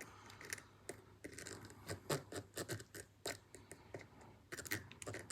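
Scattered light clicks and scratchy ticks at an uneven pace: small knife parts and tools being handled and worked during cleaning.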